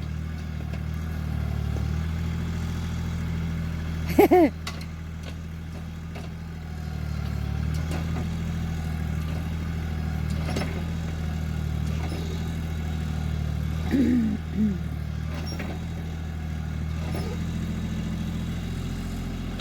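Yanmar compact tractor's diesel engine running steadily under load while the tractor works at a tree root that has caught its bucket; the engine gets louder about seven seconds in. Two short sharp sounds stand out, about four and fourteen seconds in.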